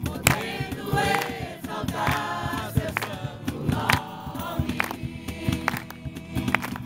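A group of young people singing a Portuguese worship song together, with a rhythmic instrumental accompaniment.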